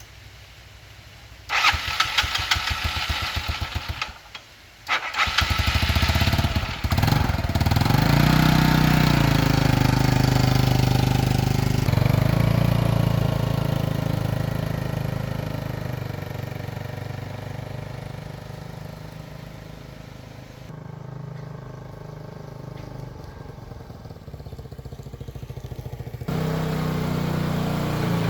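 Small petrol engine being started: about a second and a half in there is a pulsing start attempt, and after a short break it catches at around five seconds. It then runs steadily, speeding up briefly before slowly settling, and its level jumps up again near the end.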